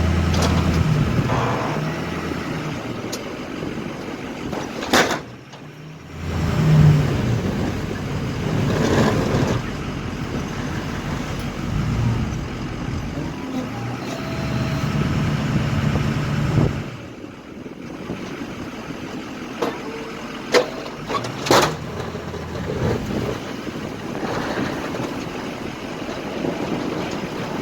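Engine of a large-scale RC truck running in stretches, its pitch rising and dropping as it drives, with a few sharp knocks.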